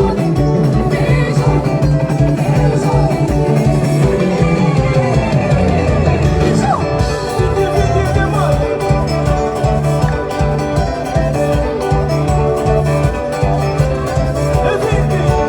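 A band playing upbeat dance music: electric guitar and bass over a steady beat, with singing.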